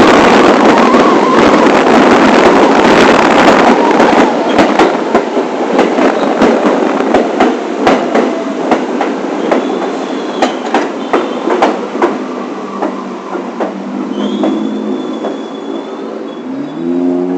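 New York City subway train running over the track, loud at first and then fading as it slows, with a run of sharp wheel clicks over rail joints and a few brief high wheel squeals. Near the end a pitched motor whine starts and rises.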